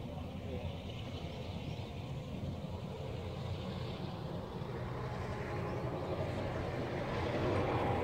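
An approaching train: a steady low rumble that grows louder toward the end.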